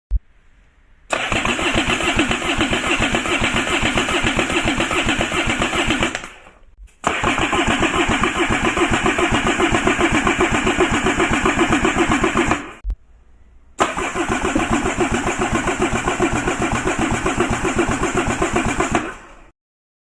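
A Sea-Doo 2014 RXP-X engine (Rotax 1630 ACE three-cylinder) being turned over on its electric starter in three separate bursts of five to six seconds. Each burst has a steady, rapid, even pulsing and cuts off cleanly. A click comes just before the first burst and another just before the last.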